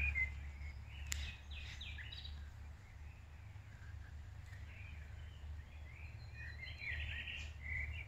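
Songbirds chirping and calling outdoors, a scatter of short high chirps and warbles over a steady low hum.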